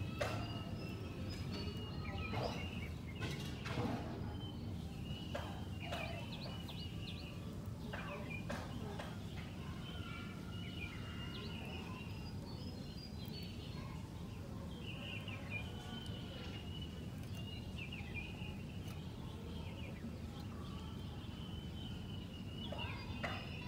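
Red-whiskered bulbuls singing: repeated short, quick whistled phrases and chirps, one after another, over a steady low background noise.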